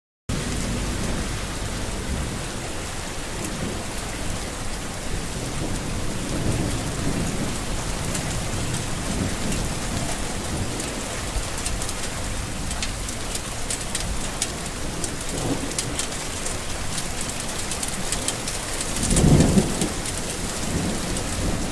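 Steady heavy rain in a forest, dense patter of drops cutting in suddenly at the start, with low rolls of distant thunder rising and fading several times, the loudest near the end.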